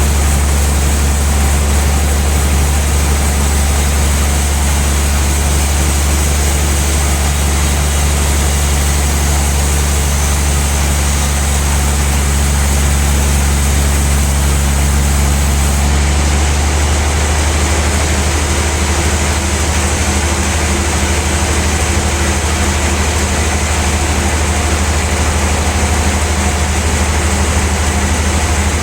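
Large sawmill band saw running steadily with a low hum and a constant hiss. About halfway through the sound changes: the high hiss thins out and the steady tones shift.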